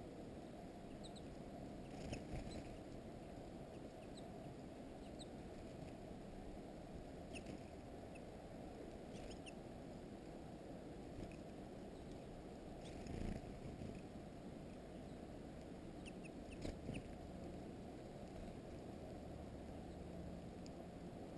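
Small songbirds at a feeder giving scattered brief, high chirps, with a few soft taps now and then, over a steady low background rumble.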